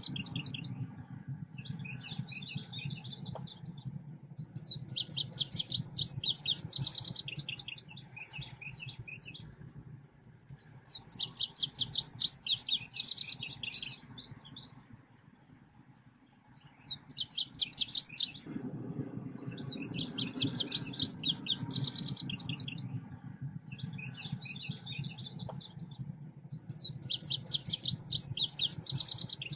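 Songbird of the kind called selendang biru singing: loud chattering phrases of rapid high chirps about every six to seven seconds, with shorter, softer phrases between. It is a lure song meant to draw or set off other birds. A low hum runs under it, dropping out for a few seconds in the middle.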